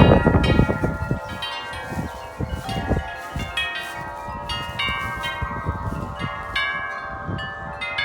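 Several large metal tube wind chimes ringing in strong gusty wind, many strikes overlapping into a dense, sustained ring. Wind buffets the microphone with a low rumble, heaviest about the first second.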